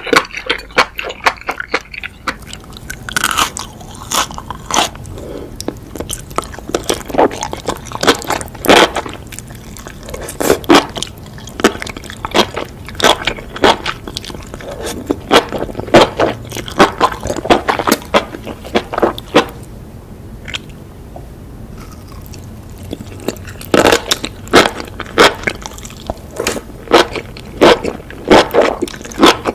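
Close-miked eating of spicy enoki mushrooms: repeated crisp, irregular crunching and chewing bites, with a short lull about two-thirds of the way through.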